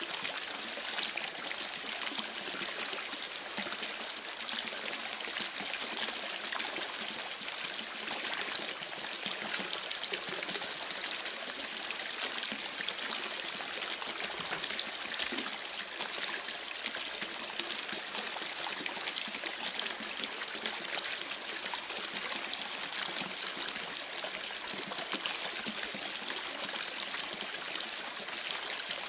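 Babbling creek: steady trickling, splashing running water, with many small scattered crackles of a campfire mixed in. The sound is continuous and unchanging.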